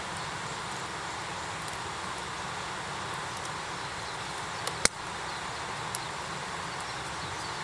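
Wood fire burning in an iron fire pit: a steady hiss with scattered faint crackles and one sharp, loud pop nearly five seconds in.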